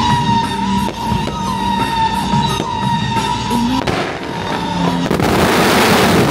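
Music with held notes plays, then about four seconds in fireworks set off at a temple procession take over: a loud rushing hiss builds and is loudest near the end.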